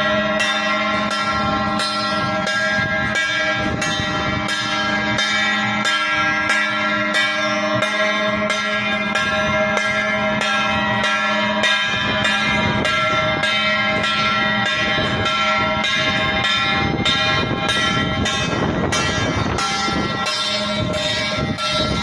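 Struck metal percussion ringing like a bell, hit in a steady beat about two to three strokes a second, each stroke's ring carrying over into the next.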